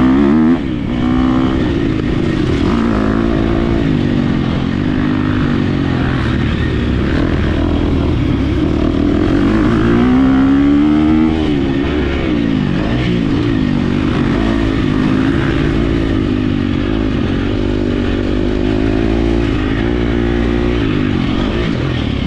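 Motocross bike engine revving hard and backing off again and again as it is ridden around a dirt track, its pitch climbing and falling, with one long climb and drop about halfway through, over rushing wind and rattling from the bike.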